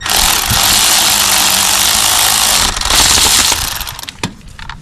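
Cordless 3/8 ratchet running in two spells, the second shorter, then trailing off: driving in the new starter's mounting bolts.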